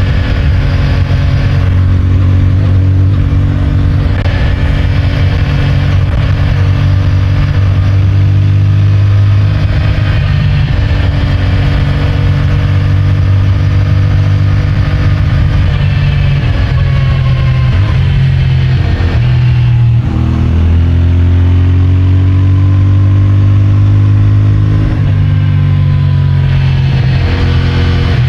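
CFMOTO 450MT's parallel-twin engine running under way on its stock exhaust at a steady cruise. About two-thirds of the way through the engine note drops and wavers as the throttle changes, then climbs steadily as it pulls again.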